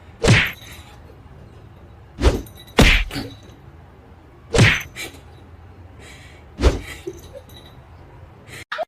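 A series of about five sharp thumps or knocks, one to two seconds apart.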